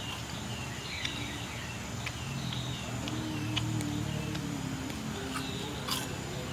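Outdoor rural ambience: a small bird repeating short falling chirps, with scattered sharp clicks and a low steady hum underneath that swells slightly midway.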